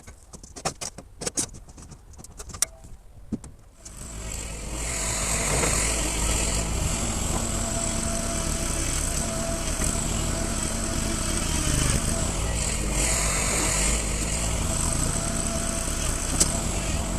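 A few sharp knocks and clicks, then a small engine starts about four seconds in and runs steadily with a high whine.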